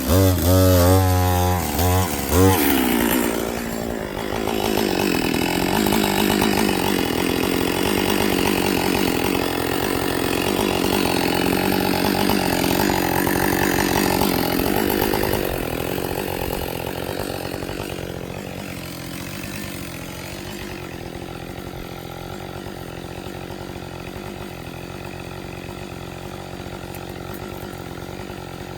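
Husqvarna 562XP two-stroke chainsaw with a dull chain: it revs hard with its pitch rising and falling for the first couple of seconds, runs steadily for about ten seconds, then drops back and settles at a quieter, steady run from about two-thirds of the way through.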